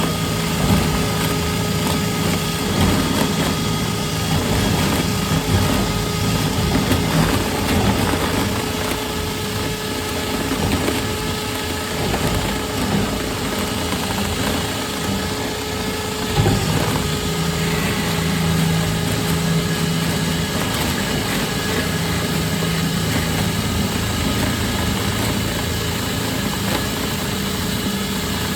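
Dryer-vent cleaning equipment running steadily inside a duct: a continuous motor hum over a rushing noise. The motor's pitch shifts about 16 seconds in.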